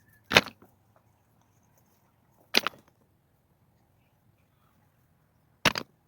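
Three sharp strikes, two to three seconds apart, each followed at once by a smaller rebound knock.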